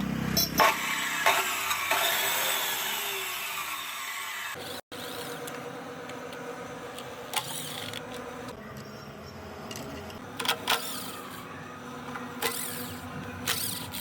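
Electric motor of a 14-inch abrasive cut-off saw whining as it spins down, its pitch falling over a few seconds. After a break comes a steadier hum with a few sharp clicks.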